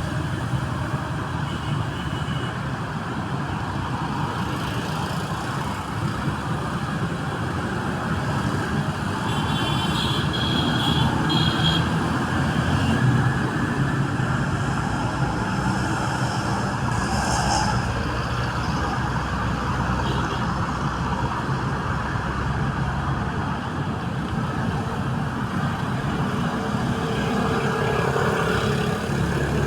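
Steady low background noise with no clear distinct events, of the kind typical of distant road traffic.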